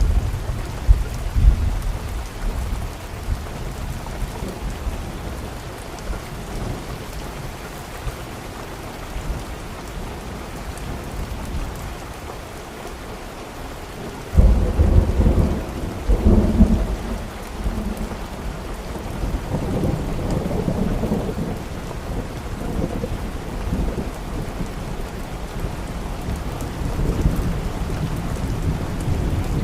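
Steady rain with rolling thunder. The rumble fades away over the first half, then a loud clap of thunder breaks in about halfway through and rumbles on until the end.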